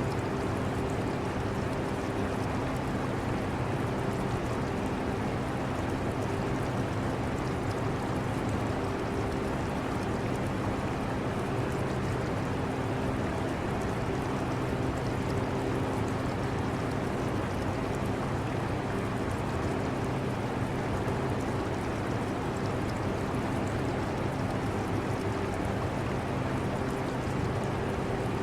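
Air conditioner running with a steady hum, mixed with the constant trickle and splash of aquarium water.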